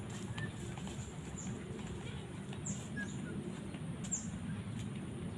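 Small birds chirping: short, high notes that sweep downward, repeated every second or so, with a few faint short whistles, over a steady low background noise.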